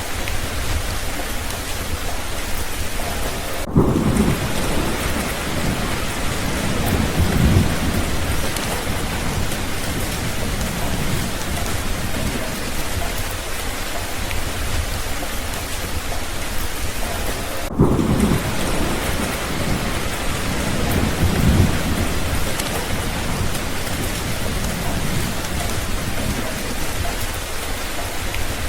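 Steady heavy rain with thunder: a roll of low thunder about four seconds in and another near the middle, each rumbling for a few seconds over the rain.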